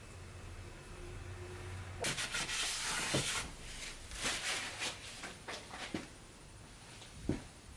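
Scraping and rubbing in repeated bursts, with a few light knocks, starting about two seconds in after a faint low hum.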